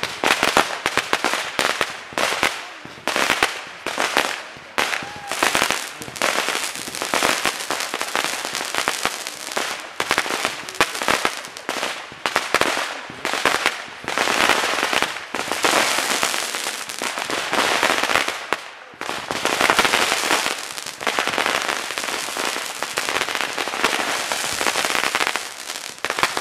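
Backyard consumer fireworks going off: a fast run of sharp pops and bangs for about the first half, then a near-continuous crackling hiss that swells and dips.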